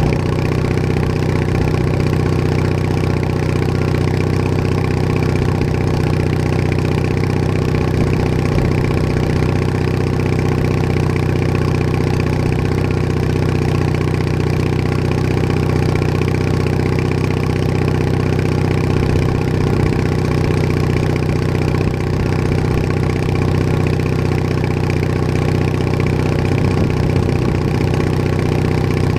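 Bolens HT20 garden tractor engine running steadily at a constant speed, heard up close from the machine itself.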